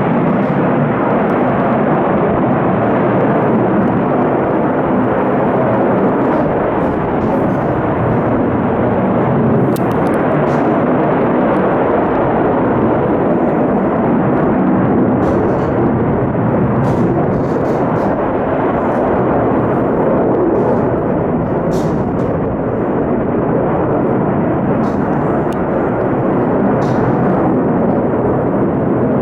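Loud, steady jet noise from US military aircraft engines, measured at 83.4 dB. It holds at one level throughout, with no rise or fall.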